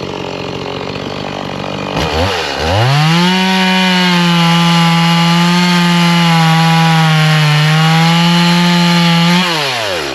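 Gas chainsaw bucking firewood logs. It runs at idle, revs about two seconds in, then holds at full throttle with the pitch sagging slightly now and then. It drops back to idle near the end.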